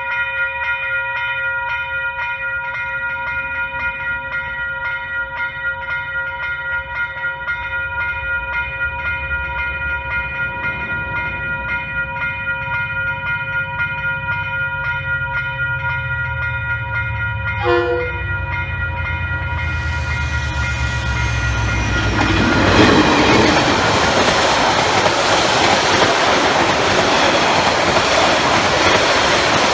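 Western Cullen Hayes electronic level-crossing bells ringing with a steady, rapid pulse while a train approaches. A short horn toot sounds about 18 seconds in, and from about 22 seconds in the train passes over the crossing, its wheel and rail noise louder than the bells.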